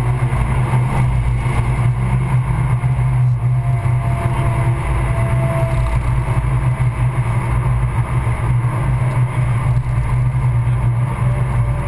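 Suzuki Swift Sport's four-cylinder engine running at steady revs, heard from inside the cabin as a constant low drone mixed with road and wind noise.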